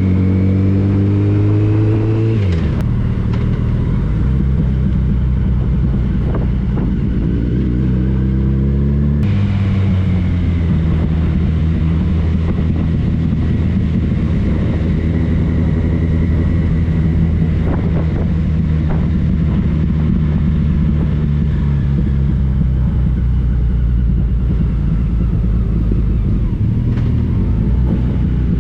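Motorcycle engine accelerating through the gears, its pitch climbing and then dropping sharply at two upshifts, about two seconds in and again around nine seconds. It then runs at a steady cruise with only slow changes in pitch, under a constant rush of wind and road noise.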